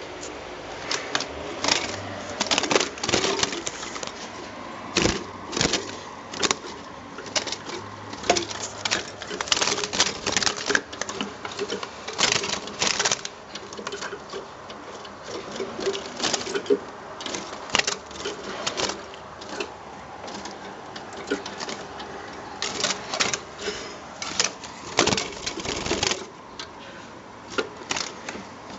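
Irregular clicks, taps and rattles coming in quick clusters, with faint bird calls.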